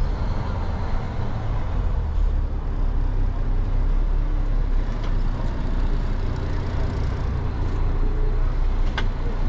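Steady low engine and road rumble from a running vehicle, with a few faint clicks.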